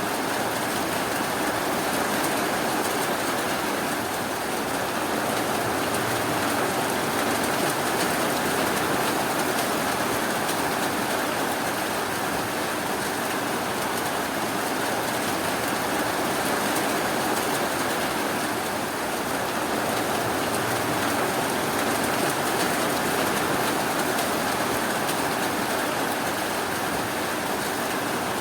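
Steady, even rainfall, a continuous hiss of rain with no single drops or thunder standing out.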